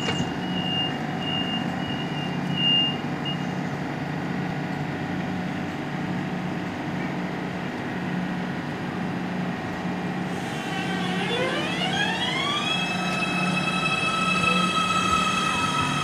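Suburban train with a steady, pulsing low hum and a repeated high beep in the first few seconds. About ten seconds in, a set of electric whines rises in pitch together for about two seconds and then holds steady as the train's traction motors accelerate it.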